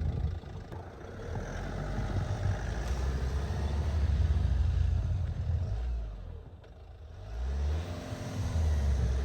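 Van engine running, dropping off about six seconds in, then revving up again.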